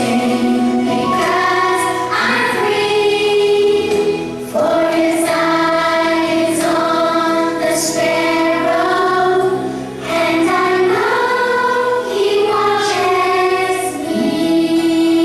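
Children's choir singing a song in long, held notes.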